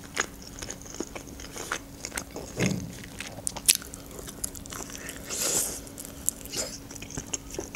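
Close-miked biting and chewing on a piece of cooked chicken wing, with short sharp clicks and crunches from the mouth.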